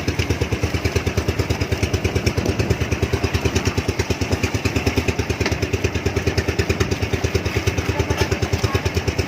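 A small engine running steadily at idle, chugging in an even, fast pulse of about eight beats a second.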